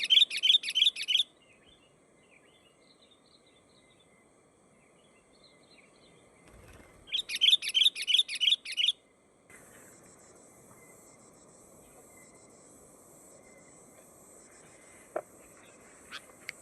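A songbird calling in two bursts of rapid, sharp repeated notes, about seven notes each, one at the start and one about seven seconds in, with faint softer chirps between. A thin steady high tone runs underneath and grows stronger about nine seconds in.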